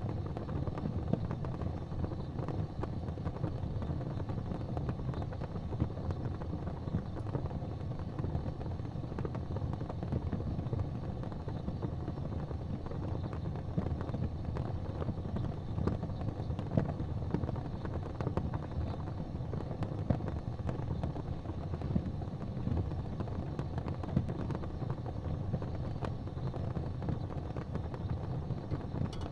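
Wood fire burning in a fireplace: a steady low rumble of flames with constant small crackles and a few louder pops.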